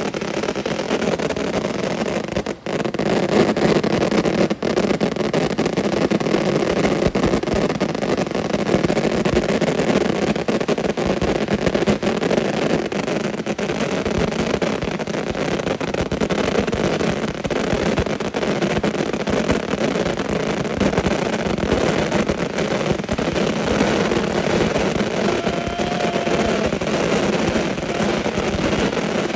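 Many consumer firework cakes (Transbober, 144 shots each) firing in a dense, unbroken barrage, the shots running together into a continuous crackling rumble, with two brief breaks a few seconds in.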